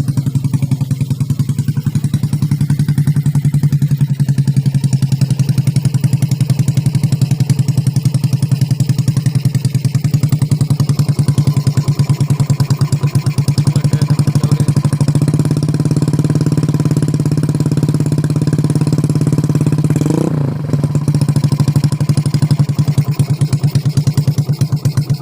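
Yamaha Jupiter single-cylinder four-stroke motorcycle engine idling through a CLD aftermarket exhaust, with a steady, rapid exhaust beat. The exhaust is meant to make it thump like a Dompeng single-cylinder diesel. About twenty seconds in, the pitch briefly rises and falls in a short throttle blip.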